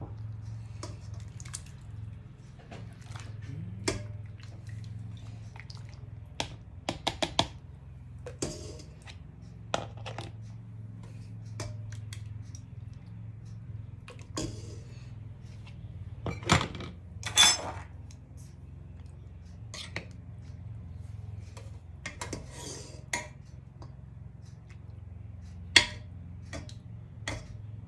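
Kitchen clatter of glass jars, lids and metal utensils, clinking and knocking in scattered strokes, while home-canned mushrooms are put up in sterilized jars. The loudest clinks come a little past the middle and once near the end, over a steady low hum.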